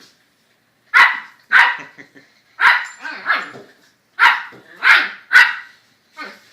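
Small dog barking: about eight short, sharp, high barks, mostly in quick pairs, with the last one fainter near the end.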